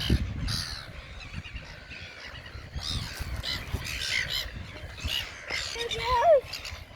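Birds squawking in short, repeated calls. A child's high voice glides up briefly near the end.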